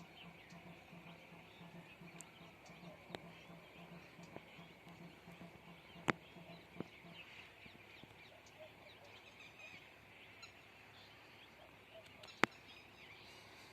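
Faint lakeside wildlife chorus: a steady bed of many small high chirps and calls. A low pulsing croak runs through the first half and stops about seven seconds in, and there are a few sharp clicks, the loudest about six seconds in and near the end.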